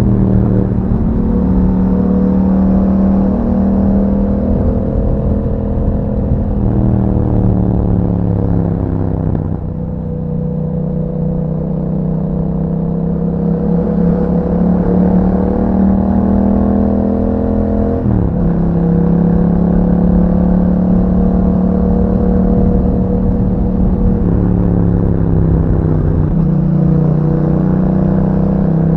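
Yamaha MT-07's 689 cc parallel-twin engine running through an Akrapovic exhaust while riding, its pitch climbing and easing with the throttle. The pitch drops sharply about ten seconds in and again past the halfway mark, like gear changes or rolling off the throttle.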